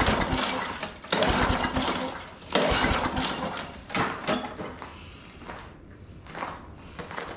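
Walk-behind lawn mower's small engine being pull-started: four pulls about a second apart, each one turning the engine over with a short sputter that dies away, close to catching but not staying running.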